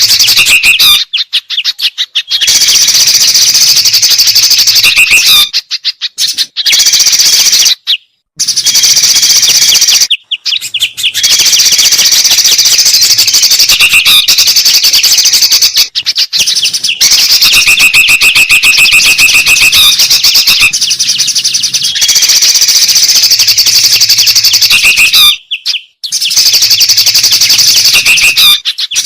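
Loud, dense chatter of songbirds layered together in a bird-lure recording: rapid high chirps and trills with a few short whistled notes. The chatter breaks off abruptly into silence several times, as at the joins of a looped recording.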